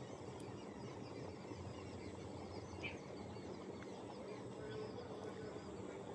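Countryside ambience: many small birds chirping faintly and continuously over a steady background hiss, with one slightly louder chirp about halfway through.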